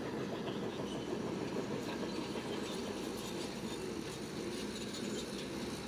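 Heavy diesel construction machinery running steadily under work, a low engine drone with a continuous rattle.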